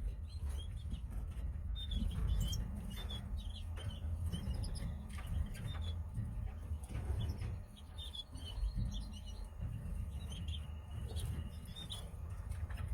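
Canaries giving short, scattered chirps over a steady low rumble, with a few faint clicks.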